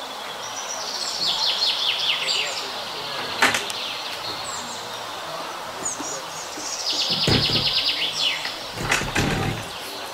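A small bird sings two bursts of rapid, high chirping trills, one about a second in and one about seven seconds in. A few sharp knocks and low bumps sound near the middle and toward the end.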